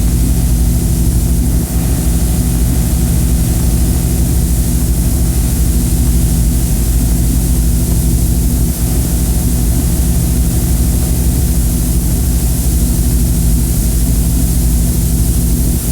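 Noise-music drone: a loud, steady low hum made of several stacked tones under a bright hiss, unchanging throughout.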